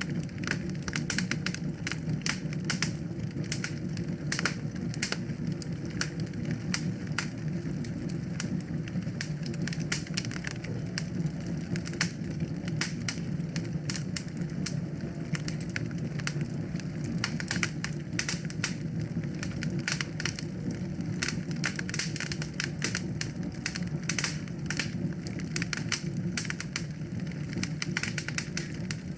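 Wood fire crackling in a fireplace: many irregular pops and clicks over a steady low background.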